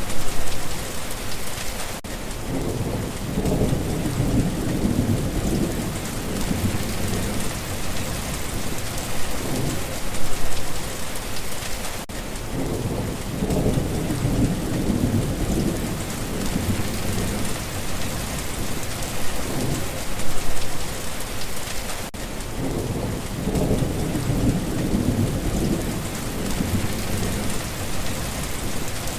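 Steady rain falling, with a low rumble of thunder that swells and fades three times, about every ten seconds.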